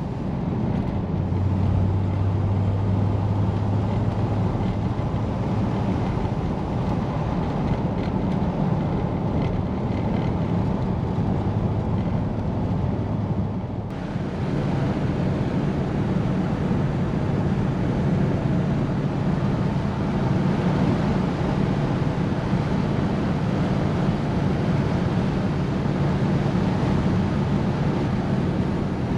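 1953 Oldsmobile Super 88's V8 engine and road noise while driving, a steady drone. The engine note changes about halfway through.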